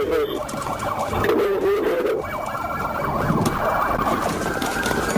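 Police car siren wailing, rising and falling in pitch, over steady vehicle and road noise.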